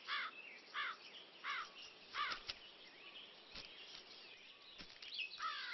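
Birds calling outdoors: one bird repeats a short harsh call about every two-thirds of a second for the first couple of seconds, then fainter scattered calls follow.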